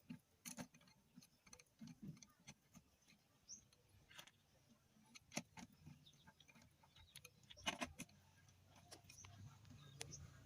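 Faint, scattered metallic clicks and clinks of small transmission parts and hand tools being handled, a few sharper clinks among them.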